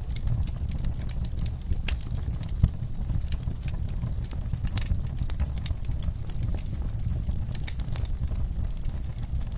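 Wood fire crackling: irregular sharp pops and snaps over a low steady rumble of burning, with one louder pop about two and a half seconds in.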